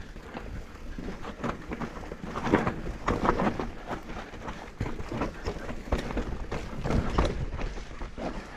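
Mountain bike descending a rough downhill trail: tyres running over dirt and roots, with irregular knocks and rattles from the bike over the bumps.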